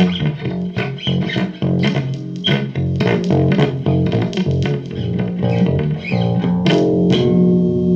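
Guitar playing a fast run of plucked notes, then striking a chord about seven seconds in and letting it ring.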